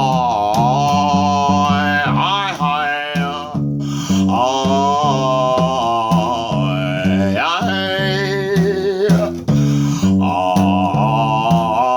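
A one-string acoustic guitar plucked in a repeating low riff, with a man's wordless singing sliding between notes over it.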